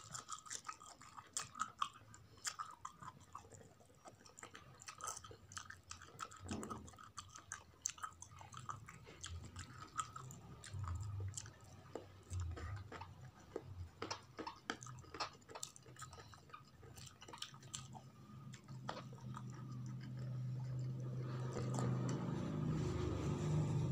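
Close-miked chewing of a mouthful of rice eaten by hand, with many short sharp clicks. A steady low hum builds up in the last few seconds.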